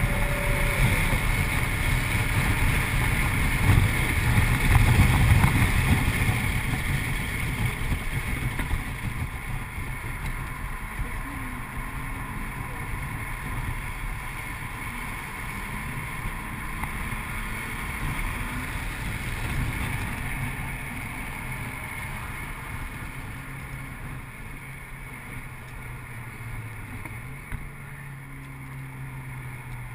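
Audi RS4's 4.2-litre V8 engine running hard under way, heard from inside the cabin with wind and road noise; it is loudest about four to six seconds in, then slowly eases off.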